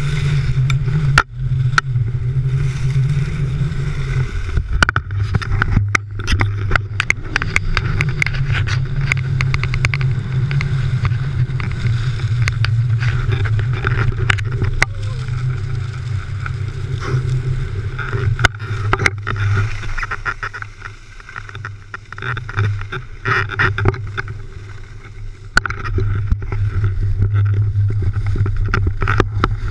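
Wind rumbling and buffeting over the bare microphone of a GoPro Hero3 carried on a ski pole while skiing, with skis hissing on snow and frequent sharp knocks and clicks from the pole and camera. The rumble drops for a few seconds about two-thirds of the way through.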